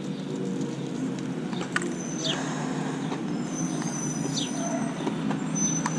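Steady low rumble of passing traffic. Over it comes a short, falling, bird-like chirp about every two seconds, and a faint thin high squeal partway through.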